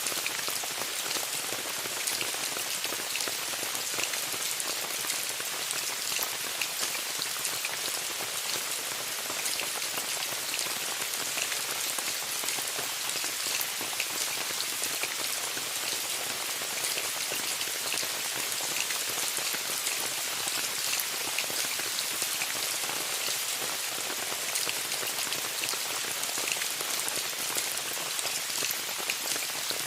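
Steady rain falling on a tent: a dense, even hiss with many sharp hits from single drops.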